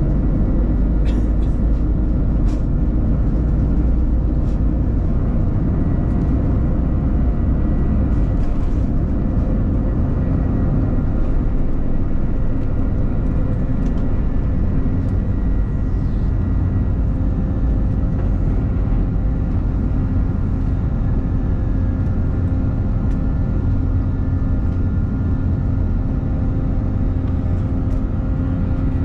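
Steady drone of jet engines and rushing air heard inside an Airbus A321's cabin, a deep rumble with a faint steady hum above it and a few light clicks.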